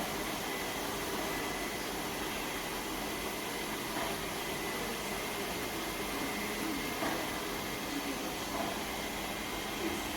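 Lefant M210 Pro robot vacuum cleaner running, a steady whirring noise from its suction motor and brushes with a thin, steady high whine.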